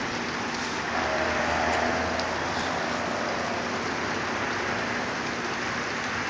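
Steady hiss of a sandstorm: wind driving sand and dust against surfaces.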